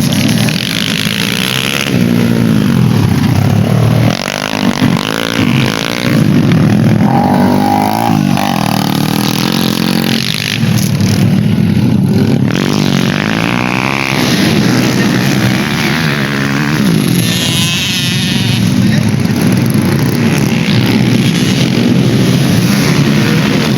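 Racing dirt bike engines revving hard and accelerating past, the engine pitch rising and falling again and again as the riders change gear and throttle.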